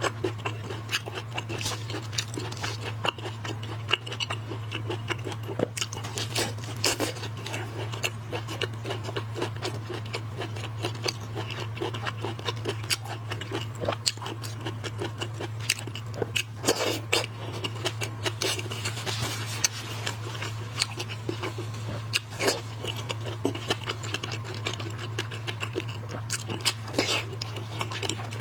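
Close-miked eating of shellfish: shells cracking and crunching, with chewing and a run of small clicks and scrapes. A steady low hum runs underneath.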